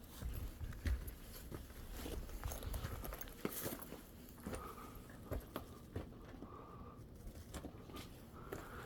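Footsteps crunching and scuffing irregularly on a rocky mountain trail, with some low wind rumble on the microphone in the first second.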